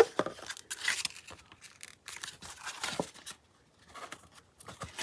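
Paper pages of a handmade journal rustling and shuffling as they are handled and lined up, with a few sharp taps, one at the very start and another about three seconds in.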